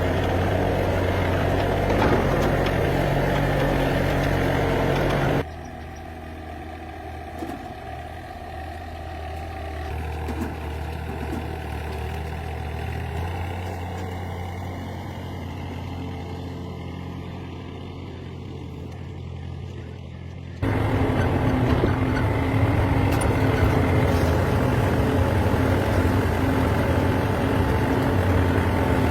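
A machine motor running steadily with a low hum. About five seconds in it cuts abruptly to a quieter hum, and about twenty seconds in it cuts back to a loud steady run.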